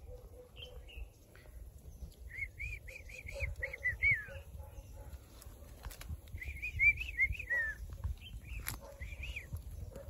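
A songbird singing two quick phrases, each a rapid run of short, arched whistled notes that ends on a falling note, about two and six seconds in, with a few single notes around them. A low rumble runs underneath.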